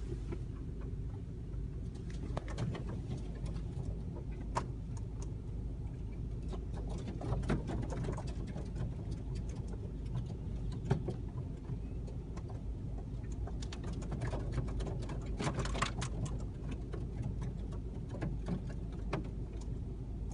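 Large flock of birds, with many short, sharp calls scattered over a steady low rumble.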